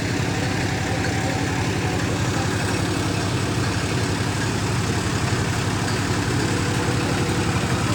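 Tractor diesel engine running steadily at a constant speed, with a fast, even low throb.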